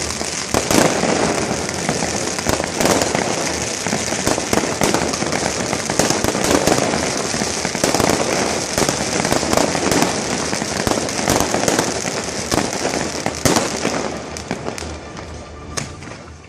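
Fireworks display going off: a dense run of bangs over a continuous crackle, which thins out near the end.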